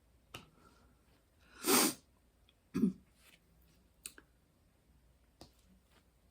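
A woman sneezing once, loud and explosive, followed about a second later by a shorter second burst from her throat. A few faint clicks come before and after.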